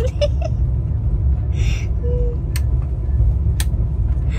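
Steady low rumble of an Indian Rajdhani Express sleeper coach in motion, heard from inside the AC compartment. Two sharp clicks come about two and a half and three and a half seconds in, as the berth's light switches are flipped and the lights go off.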